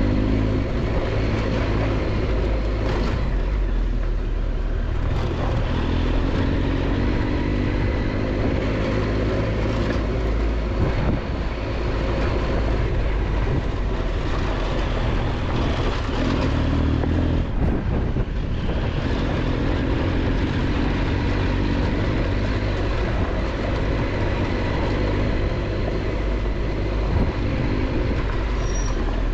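Triumph Tiger 1200 adventure motorcycle's three-cylinder engine running steadily while riding a dirt road, under constant wind and tyre noise.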